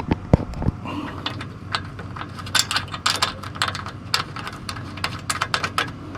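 Metal tool clicks on bolts, mostly in rapid bursts after the first couple of seconds, as the bolts holding the new cooling-fan assembly are started. The bursts fit a hand ratchet being worked back and forth.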